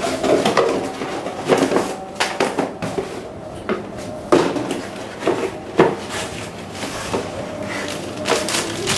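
Graphics card box packaging being handled and opened to reach the accessories: a string of irregular cardboard knocks, scrapes and rustles.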